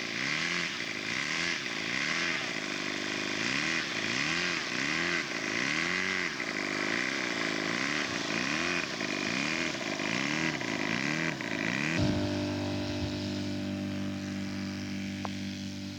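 Multi-cylinder gasoline engine of a large-scale radio-control model airplane running as it taxis, its pitch rising and falling about once a second. About twelve seconds in, the sound changes to a steady, even engine tone.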